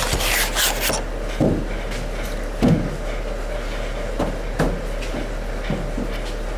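A few separate dull knocks and thumps, the loudest about two and a half seconds in, with some rustling at the start, over a steady low hum.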